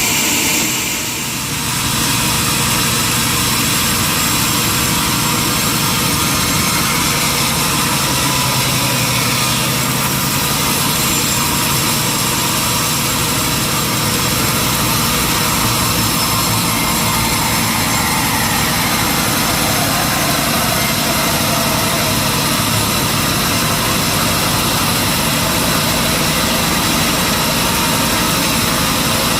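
Sawmill machinery running steadily, dipping briefly about a second in.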